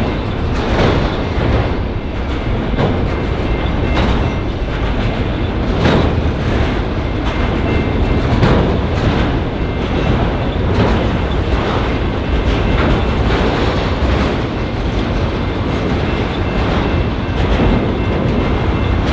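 Freight train of autorack cars rolling past: a steady rumble of wheels on rails, with wheel clicks over rail joints about once a second.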